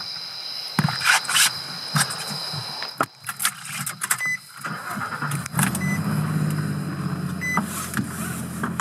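A driver gets into a car: knocks and clicks of the door and keys, then the engine is cranked and starts a little past halfway through, settling into a steady idle.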